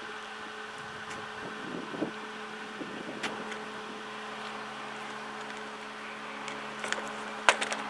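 Steady electrical hum of a wire-feed welder, with a few sharp metallic clicks near the end.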